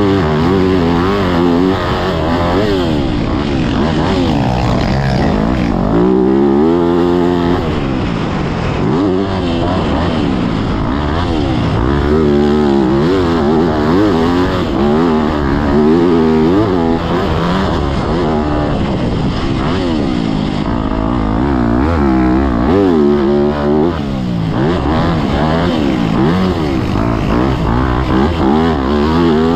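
Yamaha YZ motocross bike's engine, heard from on board, revving hard and dropping off again and again as the rider opens and closes the throttle around the track.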